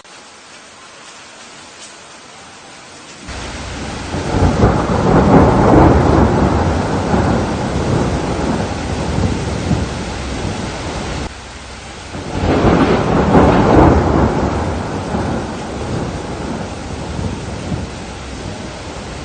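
Steady rain with two long rolls of thunder. The first breaks in suddenly about three seconds in and rumbles on for several seconds; a second peal swells about twelve seconds in and slowly fades under the rain.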